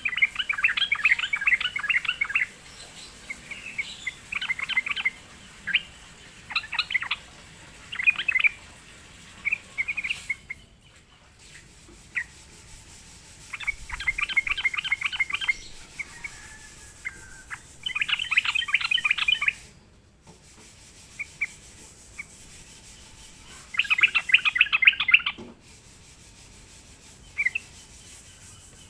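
Yellow-vented bulbul song: bursts of rapid, bubbly chattering notes, each phrase lasting one to two seconds, repeated with pauses between them.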